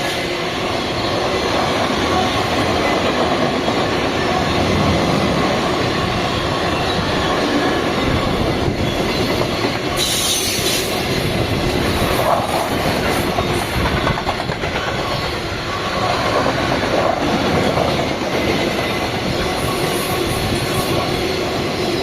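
A train passing close by, its wheels rumbling and clattering over the rail joints continuously, with a brief high-pitched wheel squeal about halfway through.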